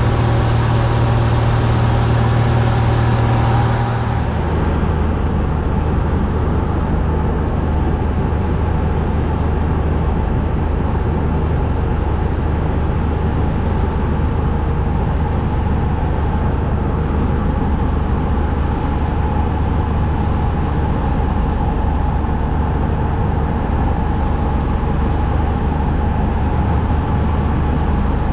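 Cessna 172's six-cylinder Continental O-300 engine and propeller droning steadily in flight, the engine freshly overhauled and on its break-in run. About four seconds in, the pitch drops and the sound turns duller.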